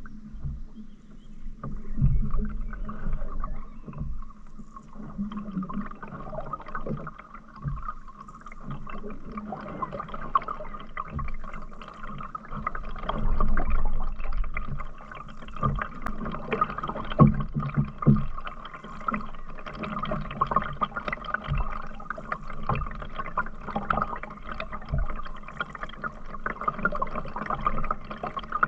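Canoe being paddled: water swishing and sloshing along the hull, with irregular low knocks and splashes of paddle strokes every second or two.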